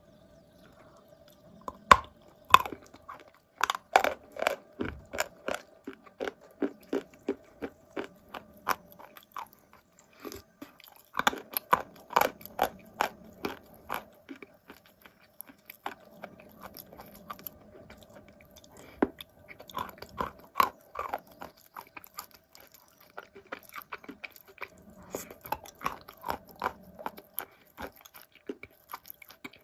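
Close-up crunching and chewing of wet blue Uzbek clay, a soft crunch: bites followed by runs of crisp crunches, in clusters with short pauses between.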